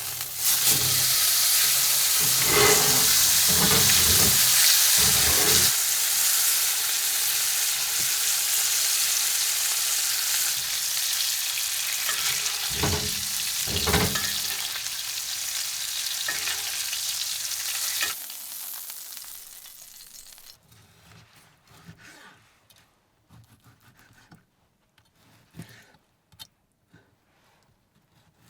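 Steak frying in butter in a pan, a loud steady sizzle with a few knocks of a utensil against the pan. About eighteen seconds in the sizzle fades away, leaving only faint clicks.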